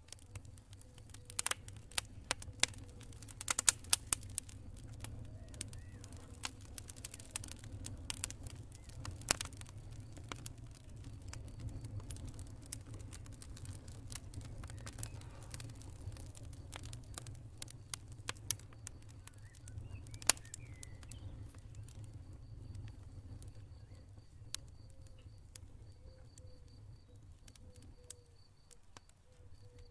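Campfire crackling, with frequent sharp pops over a low steady rumble of the burning wood. In the second half a faint, even insect trill runs beneath it.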